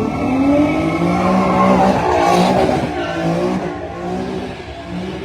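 Car engine revving hard in repeated rising sweeps, with a burst of tyre squeal about two seconds in as the car spins its wheels.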